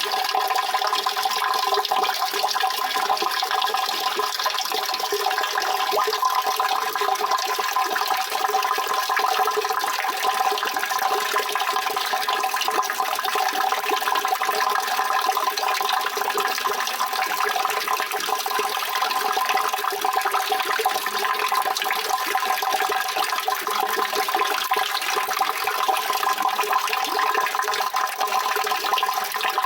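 Steady rushing water, an even unbroken wash of noise that neither swells nor stops.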